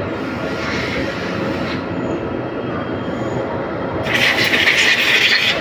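CNC lathe running with a steady machine noise. About four seconds in, a louder harsh hissing sound starts and lasts about a second and a half.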